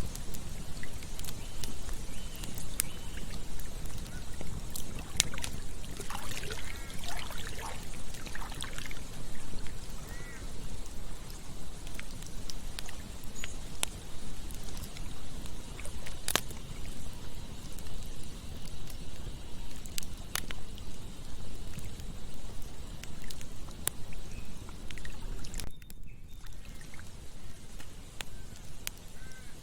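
Campfire crackling with scattered sharp pops over a steady rush of flowing water. A bird gives a quick run of short chirping calls about six to nine seconds in.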